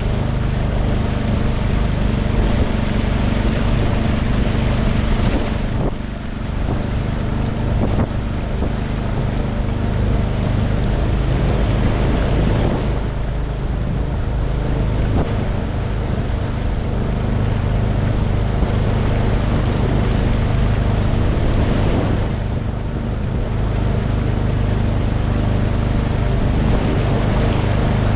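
Outboard motor of a small boat running steadily under way, with wind buffeting the microphone.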